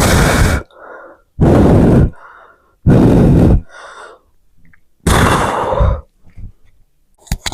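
A man's forceful, breathy exhalations, four loud ones spaced about one and a half to two seconds apart, each followed by a softer breath in. This is hard breathing under strain through the last reps of a set of dumbbell skull crushers.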